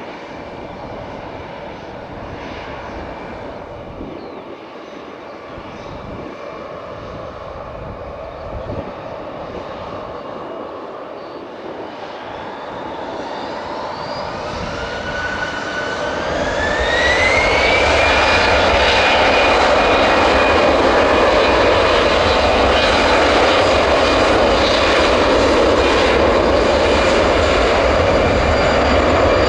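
Jet airliner engines spooling up: a whine rises in pitch about halfway through as the sound grows much louder, then holds loud and steady at high power, as for a takeoff run.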